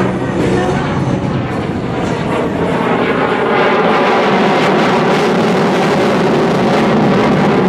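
F-16 fighter jet's engine at high power in afterburner during a climb: a loud, steady rushing noise that swells a little a few seconds in.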